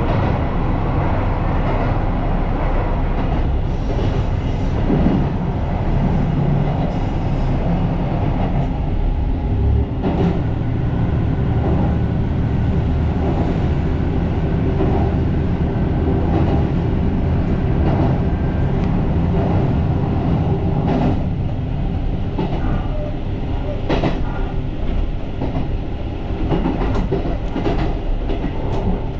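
JR Shikoku 2700-series diesel railcar running along the line: a steady rumble of engine and wheels, with scattered clicks of the wheels passing over rail joints, more of them in the second half.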